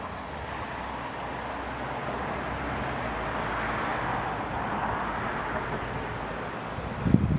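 A train passing, a steady rushing and rumbling that swells about halfway through and then eases off. Wind buffets the microphone near the end.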